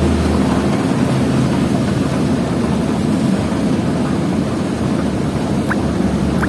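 Diesel engine of a loaded Hino FL 260 JT truck running steadily. Its low drone eases about a second in and comes back strongly near the end.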